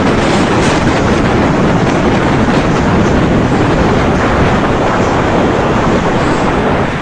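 Hurricane Fiona's storm wind blowing hard and steadily, buffeting the microphone.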